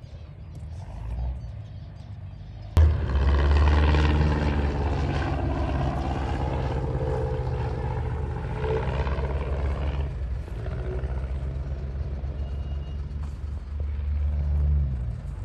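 Truck engine running as it drives over a rough bush track, with a steady low rumble. It becomes much louder suddenly about three seconds in, and the engine pitch rises and falls.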